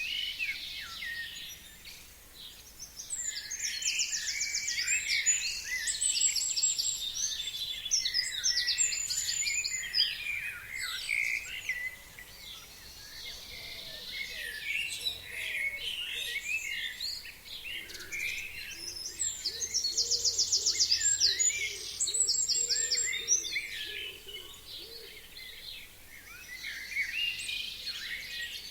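Chorus of forest songbirds singing: many overlapping chirps and warbles, with one bird's fast, high trilled song standing out twice, the second time about fifteen seconds after the first.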